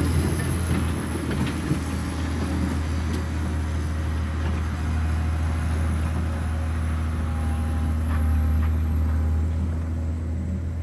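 John Deere 670 GP motor grader's diesel engine running steadily with a deep, constant drone, with some rattling noise over it in the first couple of seconds.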